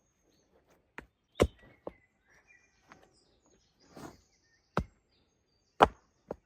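Wood being chopped: about seven sharp, irregularly spaced chops, the loudest about one and a half seconds in and near the end.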